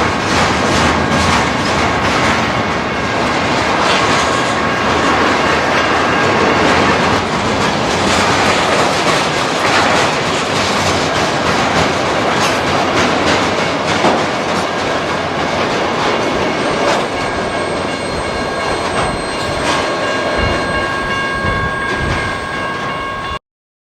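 An intermodal freight train's cars rolling past at a steady speed, the wheels clicking over the rail joints, with a thin steady squeal from the wheels. The sound cuts off suddenly near the end.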